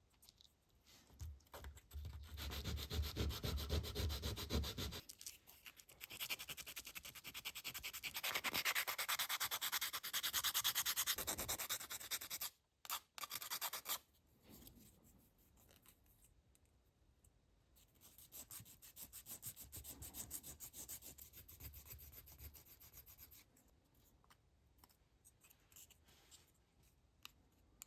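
Sandpaper rubbing on a glued ice-cream-stick fuselage, shaping and rounding its edges, in quick back-and-forth strokes. The strokes come in several bouts with short pauses between them.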